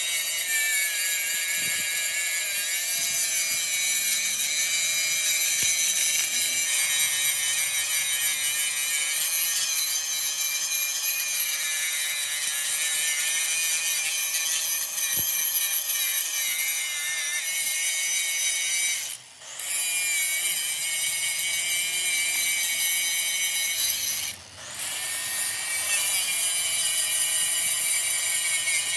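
A power tool grinding metal, with a continuous high whine whose pitch wavers as it works, briefly cutting out twice in the second half.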